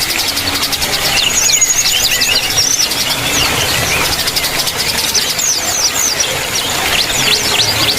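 Many small caged birds chirping and twittering at once, with a constant overlapping chatter of short, high notes and quick falling whistles.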